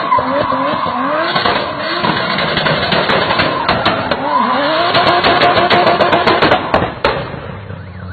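High-performance car engine revving hard, its pitch repeatedly climbing and dropping, then a longer rise about four seconds in. A quick run of sharp pops follows, typical of exhaust crackle as the throttle comes off.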